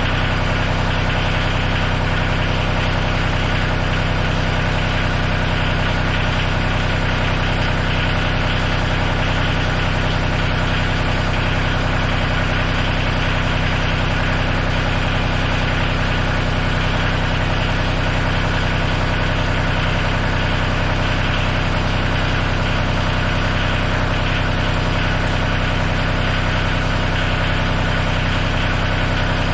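Tractor engine running at a steady, unchanging speed, with a constant low hum and no revving.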